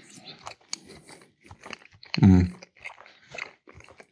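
Close-miked chewing and biting of food: irregular wet clicks and crunches of a mouth working on a mouthful. Just after two seconds in there is one short, loud voiced sound from the eater, falling in pitch.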